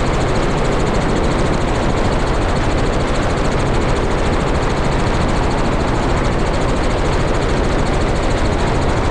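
Helicopter turbine and rotors running steadily, a continuous loud drone with a fast rotor pulse and no change in pitch or level.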